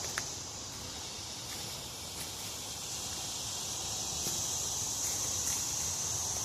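Steady high-pitched chorus of insects, growing a little louder in the second half, with a few faint clicks.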